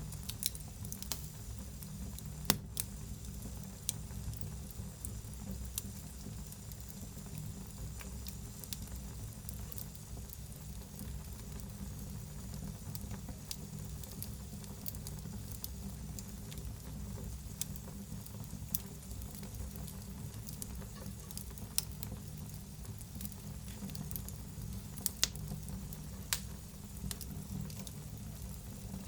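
Wood fire burning in a fireplace, crackling and hissing, with a steady low rumble and scattered sharp pops, the loudest about two and a half seconds in and near the end.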